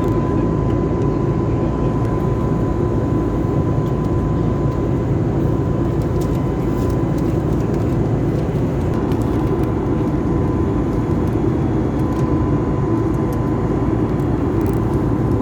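Steady roar of an airliner's engines and airflow heard inside the passenger cabin, with a thin steady whine above it.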